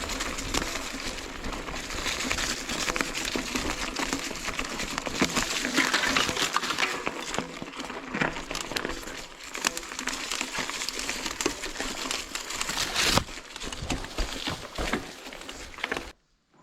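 Mountain bike rolling over a rocky track: tyres crunching and crackling on loose stones, with many sharp clicks and rattles from the bike. It cuts off suddenly near the end.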